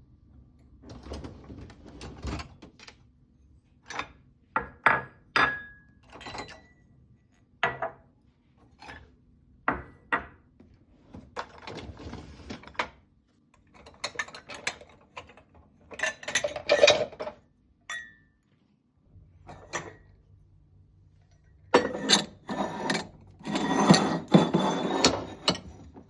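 Household objects being handled: a series of separate knocks, clicks and light clinks, some ringing briefly. Longer stretches of clattering and rustling come around two-thirds of the way through and again near the end.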